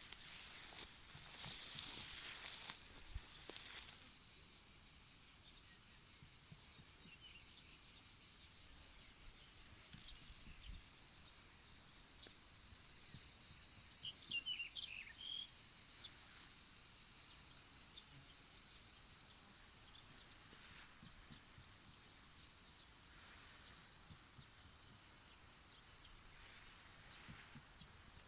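Insects chirring in a steady high-pitched drone, pulsing fast and louder in the first few seconds. A few faint short bird chirps come about halfway through.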